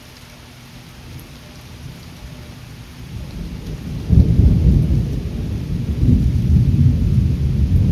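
Thunderstorm wind gusting against the microphone over steady rain: a low, uneven rumble that builds and turns sharply louder about four seconds in as a strong gust hits.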